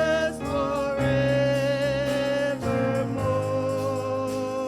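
Gospel worship song sung with instrumental accompaniment, the voice holding the word "pleasures" in long sustained notes over chord changes.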